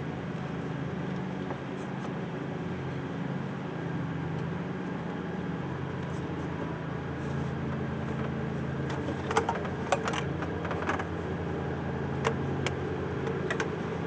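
A steady low mechanical hum, with a handful of sharp clicks and taps of parts being handled, clustered about nine to thirteen seconds in.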